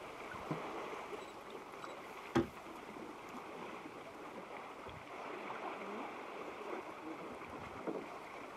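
Steady noise of river water around a canoe, with one sharp knock about two and a half seconds in.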